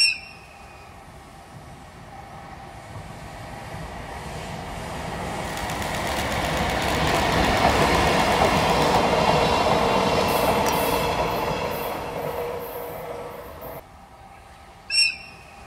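A train hauled by an ED75 AC electric locomotive passing by: its rolling sound builds as it approaches, is loudest for a few seconds in the middle, then fades, and cuts off suddenly near the end. A brief, loud ringing ping sounds at the very start and again shortly after the cut.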